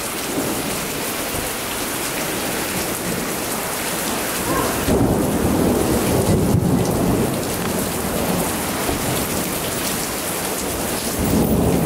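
Heavy rain pouring in a thunderstorm, with low rumbles of thunder swelling up about five seconds in and again near the end.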